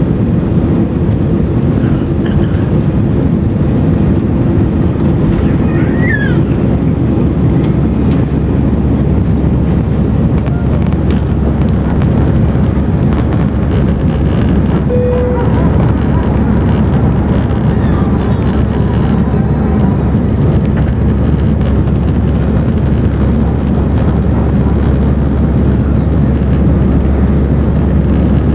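Airbus A319 cabin noise heard from a window seat in flight: the steady, loud rush of the jet engines and airflow past the fuselage.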